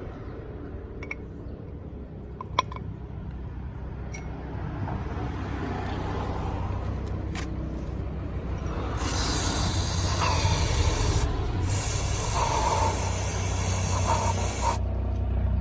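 A few small clicks and knocks. Then, from about nine seconds in, a loud hiss of spray in long bursts, broken by two short pauses.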